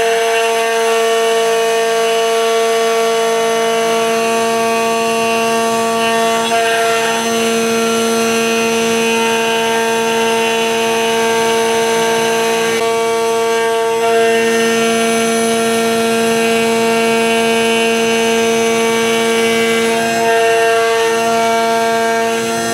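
CNC router spindle with a 1/2-inch ball-nose cutter running steadily through a roughing pass in hard Karri hardwood, a constant whine over cutting noise.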